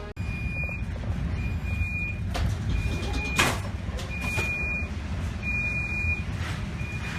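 An electronic beeper sounding a single high steady tone in repeated beeps about a second apart, over a continuous low rumble, with a few short noisy bursts.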